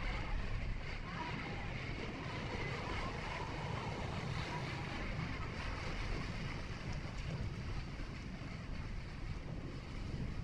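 Steady road noise from a moving vehicle: a low tyre and engine rumble with wind noise on top, even throughout.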